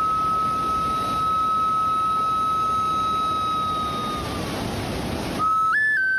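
A flute holds one long steady note over the constant rush of a waterfall. The note fades out about four seconds in, leaving only the water, and the flute comes back near the end with a few short, higher notes.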